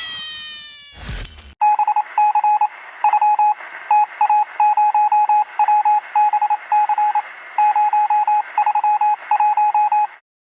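Morse-code-style electronic beeping: one steady tone switched on and off in irregular short and long pulses over a light hiss, starting about a second and a half in and cutting off abruptly near the end. Before it, a falling-pitch effect fades out and a brief noise sounds.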